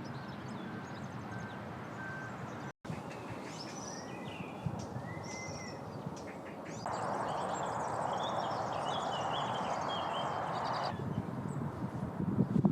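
Wild songbirds calling in several short recordings joined together. First comes a row of short, evenly spaced whistled notes; after a cut there are varied chirps and calls, with a steady hiss underneath for a few seconds in the middle.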